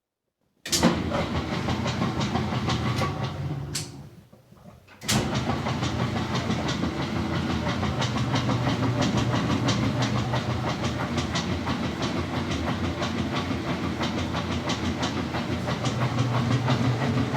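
Admiral top-load washing machine running with a dense clattering noise; it starts abruptly about a second in, dies away briefly around four seconds, then starts again and runs steadily.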